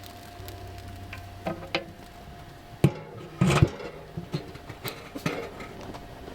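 Firewood being loaded into a small wood stove: a series of wooden knocks and metal clanks, the loudest a cluster about halfway through, over a steady faint hum.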